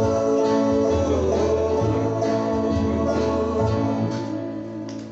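Live gospel band with acoustic guitar playing the instrumental ending of a song, the last chords ringing and fading out near the end.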